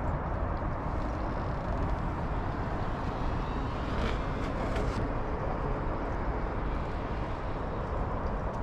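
Steady outdoor background rumble, heaviest in the low range, with a few faint clicks about four seconds in.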